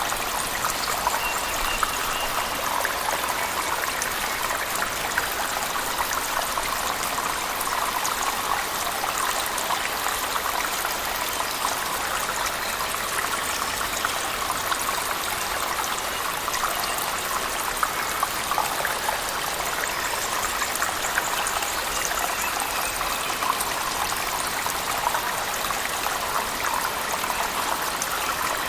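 Steady rushing of falling water, a cave waterfall mixed with heavy rain, in an even unbroken hiss.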